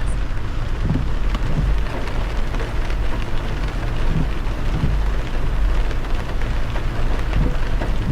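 Heavy rain beating on a moving car, with a steady low rumble underneath.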